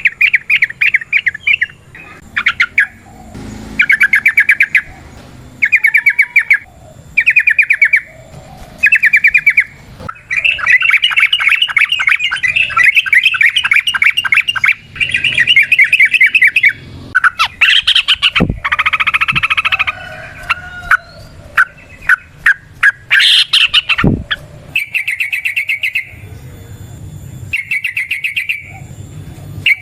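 Yellow-vented bulbul (trucukan) singing its bubbling, chattering song in short bursts of rapid notes, with one long unbroken run about a third of the way in, then busier varied calls. Two low thumps come about two-thirds of the way through.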